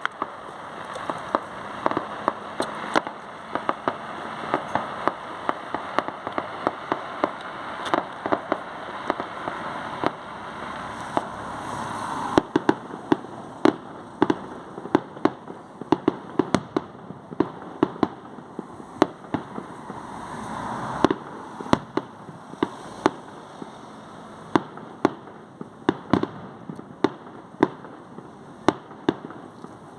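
Fireworks going off: a long run of sharp bangs and cracks at irregular intervals, sometimes several a second, over a background hiss and crackle that swells twice.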